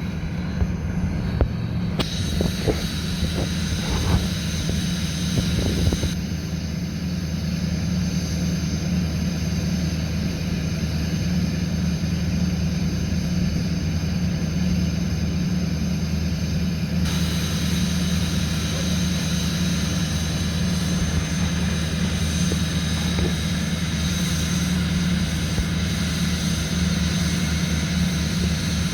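6.6 L LLY Duramax V8 turbo-diesel running at its raised cold-start high idle, a steady, even drone. A few sharp ticks stand out in the first several seconds.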